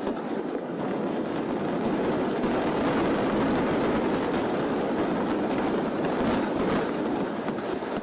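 Building collapsing in a demolition: a steady, rumbling roar of falling masonry.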